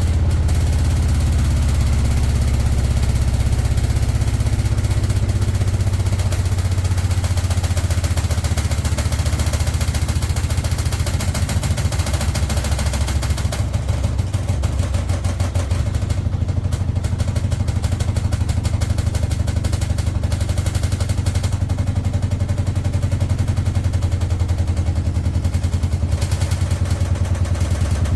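A machine running steadily, with a loud low rumble and a very fast rattle.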